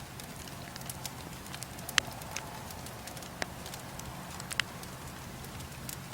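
Wood bonfire crackling as it burns: scattered sharp pops and snaps over a steady low background. The loudest pop comes about two seconds in and another strong one at about four and a half seconds.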